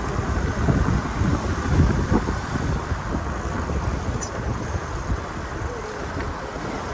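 Wind buffeting the microphone of a moving bicycle rider, a dense, fluttering low rumble, mixed with road noise.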